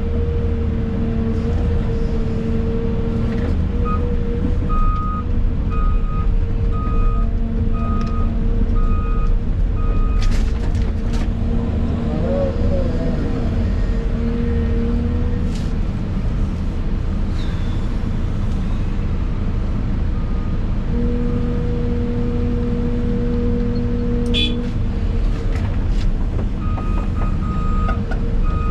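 Excavator's diesel engine running steadily with a whine that drops out and comes back, heard from inside the cab. A reversing alarm beeps about once a second for several seconds, stops, and starts again near the end, and a few sharp knocks come through.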